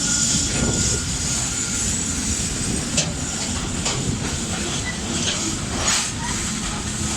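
Freight train of tank cars rolling past: a steady rumble of wheels on rail with hiss, and a few sharp wheel clicks and squeals about three, four and six seconds in.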